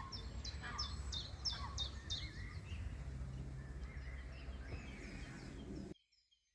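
Small songbirds calling over a steady low outdoor rumble, with a quick run of high notes, each falling in pitch, in the first second and a half. The sound cuts off abruptly about six seconds in.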